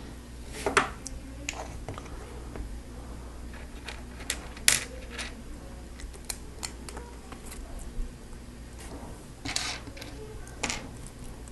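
Lego Technic plastic pieces being handled and pressed together: irregular sharp clicks and light clatter, with a few louder snaps about a second in, near the middle and near the end.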